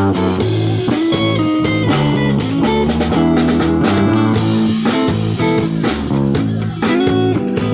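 Live band playing an instrumental stretch of a funk-disco song: electric guitar, bass guitar and drum kit keeping a steady beat.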